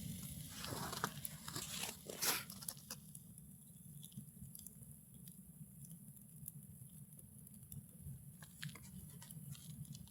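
Bonfire crackling: scattered sharp pops and snaps over a steady low rumble. A louder rustling noise runs through the first two and a half seconds.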